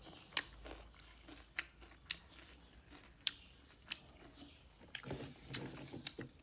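A person chewing a mouthful of rice and curry with the mouth closed, with sharp, short smacks about once a second.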